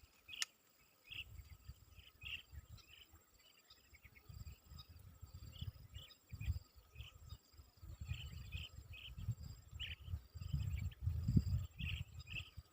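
Outdoor ambience of insects trilling steadily at a high pitch, with scattered short bird chirps. An intermittent low rumble comes and goes underneath and is loudest in the second half.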